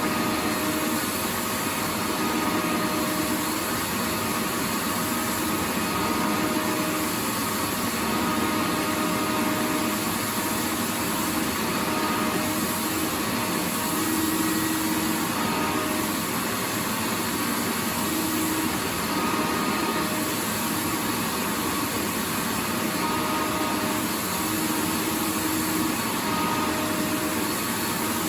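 Vacuum cleaner running steadily: a continuous, even rush of motor and airflow noise, with a faint whine that comes and goes.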